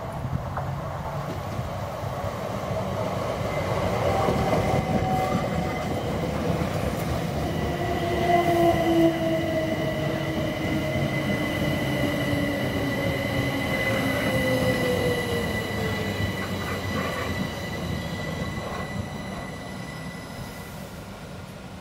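A Southern Class 377 Electrostar electric multiple unit runs past, its wheels rumbling on the rails. A high steady whine runs through it, and motor tones fall in pitch from about four to sixteen seconds in. The sound fades as the train draws away.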